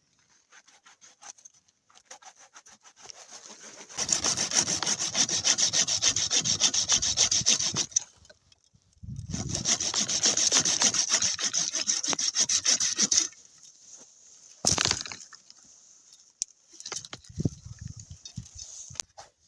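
Hand saw cutting wood in two long bouts of quick, rasping strokes, with a short pause between them. A single sharp knock follows, then a few lighter knocks near the end.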